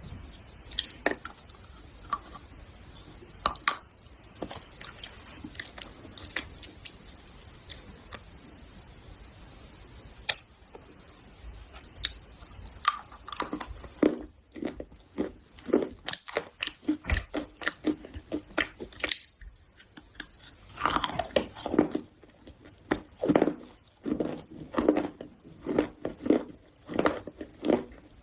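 Close-up biting and chewing of a crunchy food: scattered crunches at first, then steady rhythmic chewing from about halfway.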